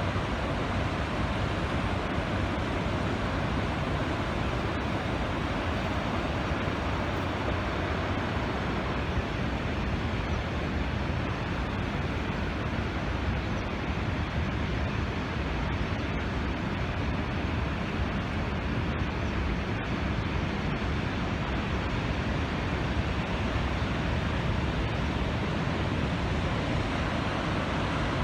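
Typhoon wind blowing across the microphone together with the rush of storm-churned rough water, a steady noise without a break.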